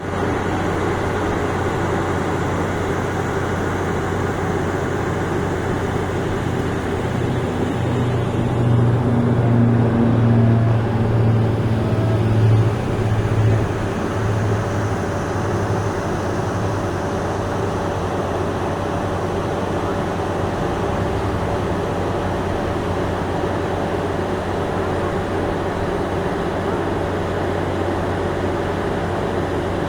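Diamond twin-engine light airplane's propeller engines during takeoff: a steady low drone that swells about eight seconds in, is loudest for a few seconds around ten to thirteen seconds, then eases back into a steady hum.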